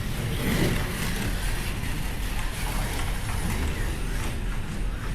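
Slot cars racing on a club track just after the start, their small electric motors whining along with the steady hiss and rattle of the cars running on the track.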